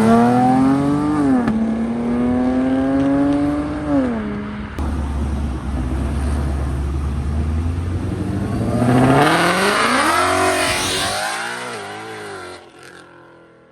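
A car engine revving hard as it accelerates away. Its pitch climbs, drops sharply about a second in, and climbs again until about four seconds in. After a deep rumble, a second hard acceleration with a rushing noise comes around nine to ten seconds and fades out near the end.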